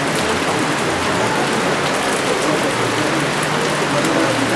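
Steady rain falling on surfaces: a dense, even hiss with no pauses.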